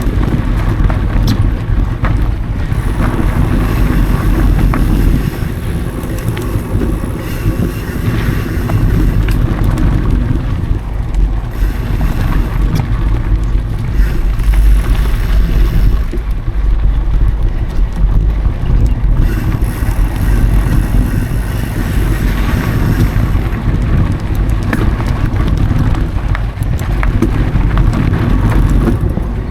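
Wind buffeting an action camera's microphone while a mountain bike rolls along a dry trail: a steady, loud low rumble with scattered small clicks and rattles from the bike.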